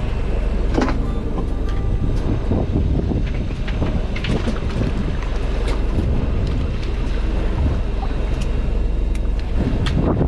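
Fishing boat's engine running steadily, with a few light knocks and clicks on deck.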